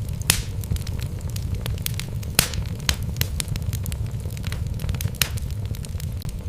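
Wood logs burning in a fireplace, with a steady low rumble of flame and frequent irregular crackles and pops, two louder pops about a third of a second in and near halfway.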